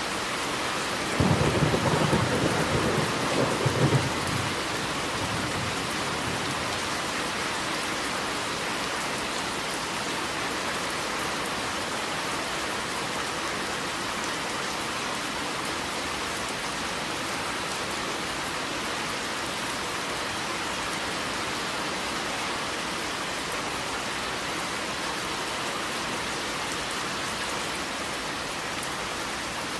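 Steady heavy rain with a clap of thunder rumbling about a second in and dying away over the next few seconds.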